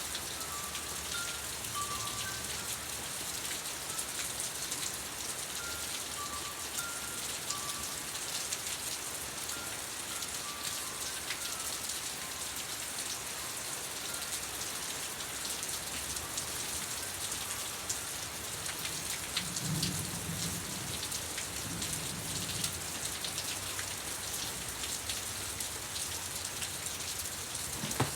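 Steady rain falling on surfaces, a dense patter of drops. A low rumble comes about twenty seconds in.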